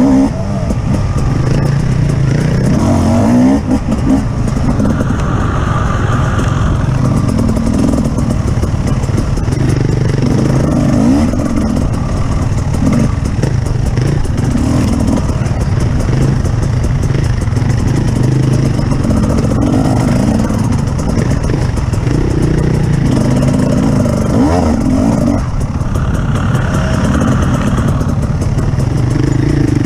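Engine of an off-road vehicle running continuously under changing throttle, its pitch repeatedly rising and falling as it revs up and eases off, with some rattling along the way.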